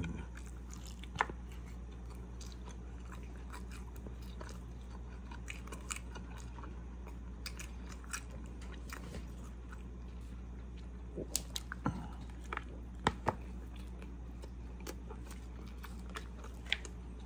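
Close-up chewing of a mouthful of chicken taco, with scattered wet mouth clicks and smacks, most of them in a short cluster about two thirds of the way through. A steady low hum sits underneath.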